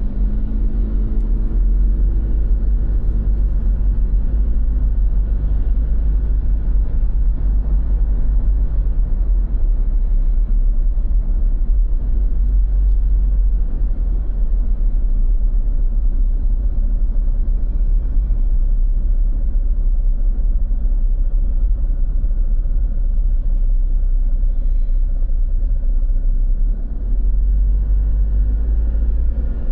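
Steady low rumble of road traffic, with a vehicle engine passing during the first few seconds.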